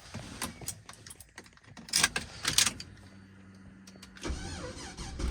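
Sharp clicks and knocks inside a car as someone gets in and handles the controls. About a second before the end, a low rumble builds as the V8 engine is cranked to start.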